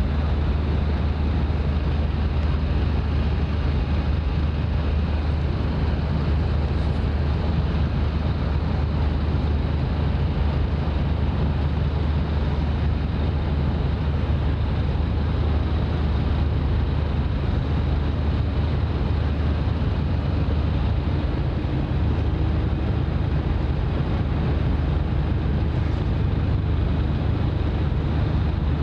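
Steady low rumble of a ship under way, with wind noise on the microphone; it holds an even level throughout.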